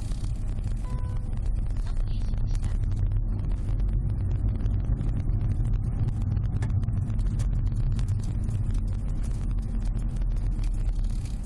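Cabin noise of a Subaru Legacy BH5 wagon on the move, heard from the rear seat: a steady low road and engine rumble with faint scattered ticks.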